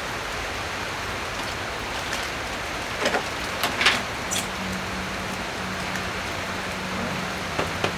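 A few light metallic clicks and knocks of hands and a tool working at the throttle cable fittings of a small outboard motor, over a steady hiss. A low steady hum comes in about halfway through.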